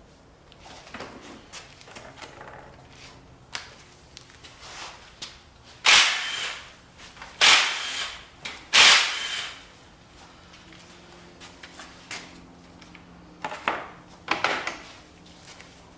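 Metal clanks and rattles from tools and engine parts being worked during a V8 engine teardown. Three loud, sharp clanks come close together about six to nine seconds in, with lighter clicks around them and another cluster near the end.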